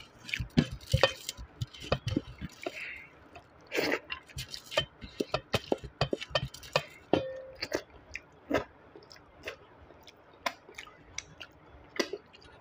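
A person chewing and smacking their lips while eating dal and rice by hand, with many short wet clicks that thin out toward the end.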